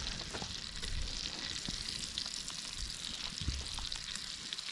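Croissant-dough pigs in blankets frying in hot fat in a pan: a steady sizzle with fine crackling.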